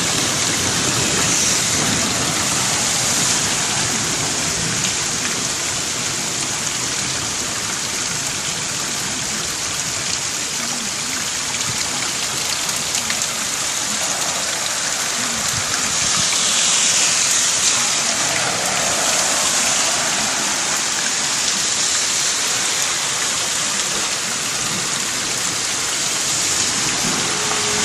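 Heavy tropical downpour: a dense, steady hiss of rain pouring down, swelling a little for a couple of seconds just past the middle.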